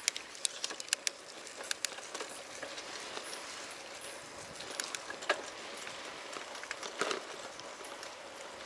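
Rain starting: scattered drops tick sharply near the microphone over a steady hiss of rain, with a brief cluster of louder drops about five and seven seconds in.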